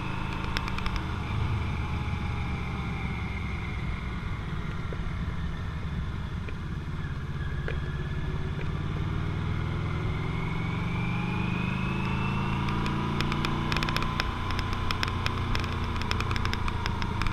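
Motorcycle engine running under way, its pitch sagging and then climbing slowly as the speed changes, over a rushing noise. Clusters of sharp clicks come in the second half.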